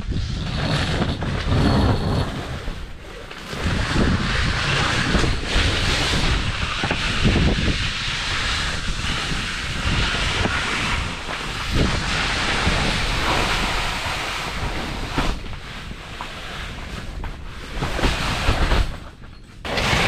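Strong wind gusting over open ice and buffeting the microphone: a dense rushing hiss over low rumble that rises and falls, dropping off briefly near the end.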